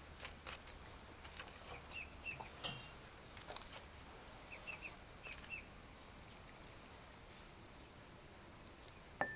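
Outdoor ambience: a steady high insect hum, a few short bird chirps in small clusters, and occasional light clicks and knocks, the sharpest near the end.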